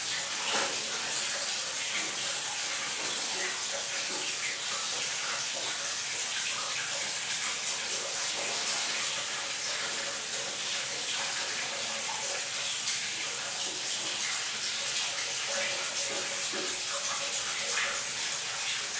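Bathroom water running steadily, an even hiss with no break, as a pet bird is washed.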